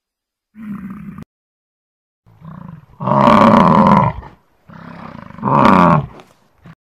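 A large animal's deep bellowing calls, three in a row: a short one first, then two long, loud ones.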